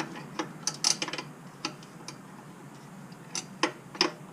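Irregular sharp metallic clicks of hand tools on a bolt, a ratchet and wrench working a nut and bolt free on a motorcycle's rear support bracket.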